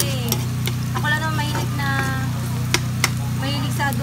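Chopped onions frying in oil in a wok, stirred with a metal spatula that clicks and scrapes against the pan, with two sharp clinks near the end. Background music with a melody plays over it, along with a steady low hum.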